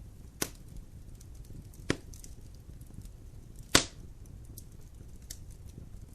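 Fire burning in a fireplace: faint steady crackling over a low rumble, with three loud sharp pops, the loudest near four seconds in.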